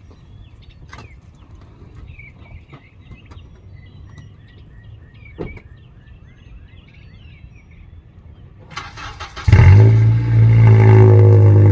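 Birds chirping and a few clicks over quiet outdoor background. About nine seconds in, the Honda Accord's engine cranks briefly and fires, settling into a loud, steady droning idle through its exhaust with the muffler deleted.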